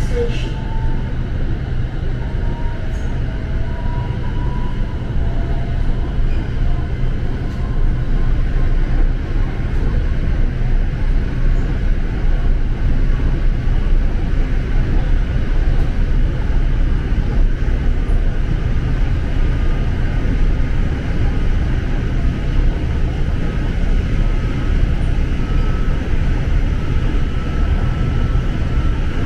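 Steady running noise of an SRT Red Line electric commuter train, heard from inside the car at speed: a low rumble with a faint whine that slowly rises in pitch.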